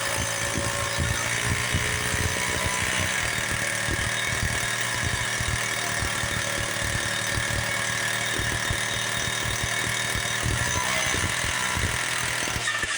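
Small two-stroke engine on a motorized bicycle running steadily, a high whine over rapid, uneven low popping.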